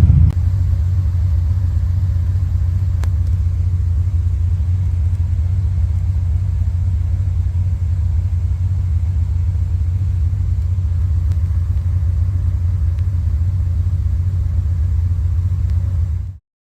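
1974 Triumph TR6's engine running with a steady low rumble, without revving up or down. The sound cuts off abruptly near the end.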